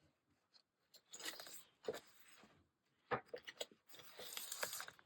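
Paper being handled and pressed down on a table: rustling and crinkling, with sharp taps about two seconds in and again at about three seconds.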